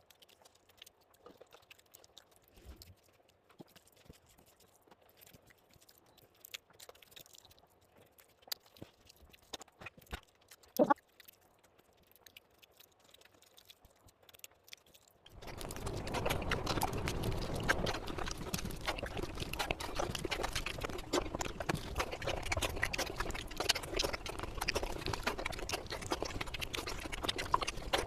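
Close-up eating sounds from a meal of rice and fish curry. For about fifteen seconds there are only soft scattered mouth clicks, with one sharp click in the middle. Then loud, dense chewing and lip-smacking begins and continues.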